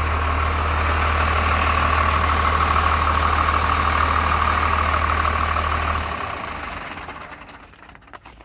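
Ford diesel bucket truck engine idling steadily with a whine over it, then shut off about six seconds in, the sound dying away over the next two seconds.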